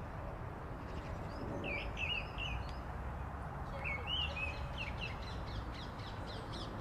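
Small songbirds chirping in short bursts, with a quick run of rapid, evenly spaced notes in the second half, over a steady low rumble.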